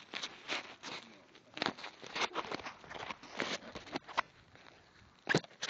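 Irregular rustling, scraping and sharp knocks of something being handled right against the recording phone's microphone, a louder knock about four seconds in.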